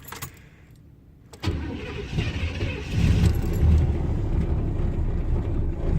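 A 1987 Chevrolet Caprice's carbureted 305 small-block V8 cold-starting without the gas pedal pumped and with its choke not working. After a few faint clicks the engine turns over and catches about a second and a half in, gets louder around three seconds, then keeps running steadily.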